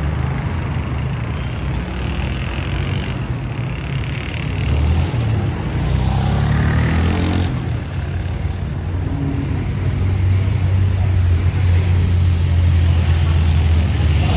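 Street traffic: motor vehicle engines running close by, a low rumble throughout. An engine's pitch glides about halfway through, and a heavy steady rumble builds over the second half.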